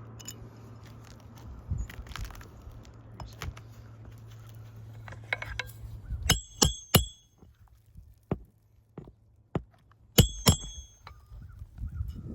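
Sharp metallic strikes with a ringing note: three in quick succession about six seconds in and two more about four seconds later. A steady low hum runs underneath and stops as the strikes begin.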